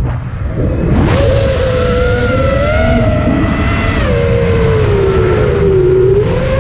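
Motor and propeller whine of a battery-powered RC aircraft, its pitch rising and falling with the throttle: eased off at the start and climbing back about a second in, then wavering and sagging after about four seconds. Wind buffets the microphone underneath.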